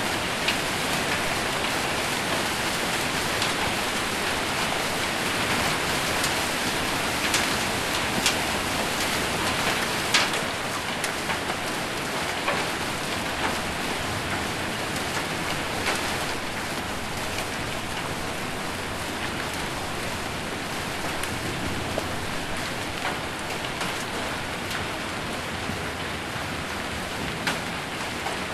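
Rain and hail falling on a metal roof: a dense, steady hiss with scattered sharp knocks from single hits, easing slightly in loudness toward the end.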